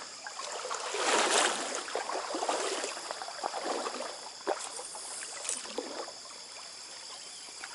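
Stream water sloshing and splashing in uneven swishes, loudest about a second in, with a steady high insect chorus behind.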